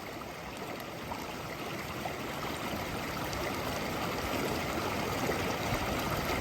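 Steady rushing of a flowing stream, growing gradually louder.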